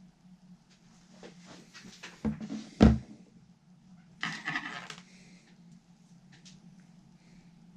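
Workbench handling sounds: a run of clicks and knocks, a heavy thump about three seconds in, then about a second of rustling or scraping, over a steady low hum.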